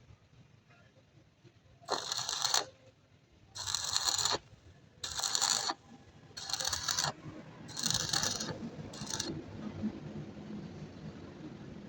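Metal being worked by hand in short strokes: six noisy scraping strokes, a little over a second apart.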